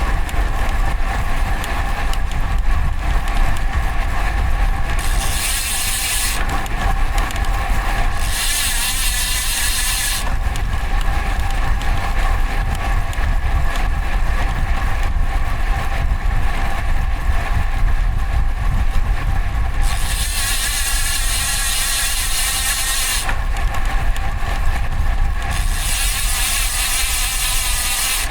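Riding noise from a road bike's handlebar-mounted camera: a steady low wind rumble on the microphone under road noise, with stretches of hiss that rise and drop away several times.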